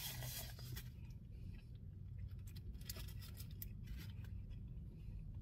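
Quiet chewing of a mouthful of cheeseburger, with the crisp rustle of a paper napkin wiped across the mouth near the start.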